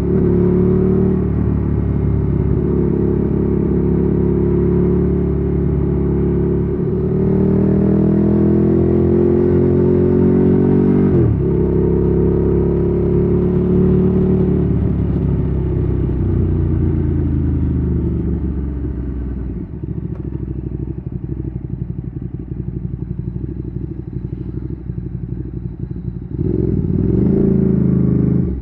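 Ducati Streetfighter 848's L-twin engine through a Termignoni exhaust, accelerating through the gears with upshifts about seven and eleven seconds in. It then slows on the engine with falling pitch and settles to idle from about twenty seconds, before pulling away again near the end.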